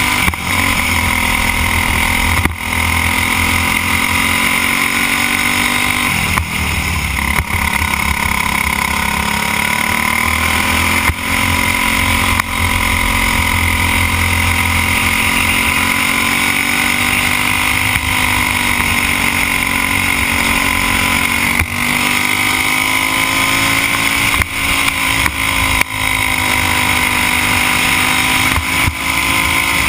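Racing kart's Briggs & Stratton Animal single-cylinder four-stroke engine running hard under the helmet camera, its pitch rising and falling through the laps, with several short drops where the throttle is lifted.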